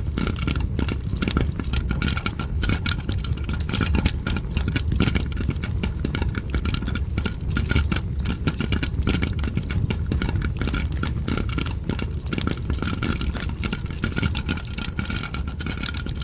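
Popcorn popping mixed with a wood fire crackling: many sharp pops and crackles a second over a steady low rumble.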